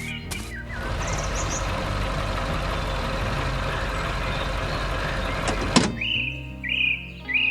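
A heavy harvester machine running, a steady dense noise from about a second in that stops suddenly with a click near six seconds. Birds chirp after it over soft background music.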